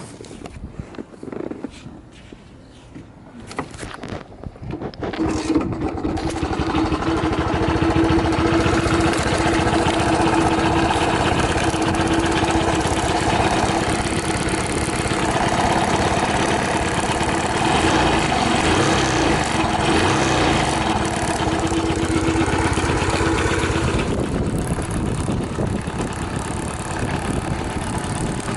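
Honda Gag's small four-stroke single-cylinder engine being started from cold: a few knocks, then it catches about five seconds in and runs steadily, with no abnormal noises. A steady tone in its note drops out near the end while the engine keeps running.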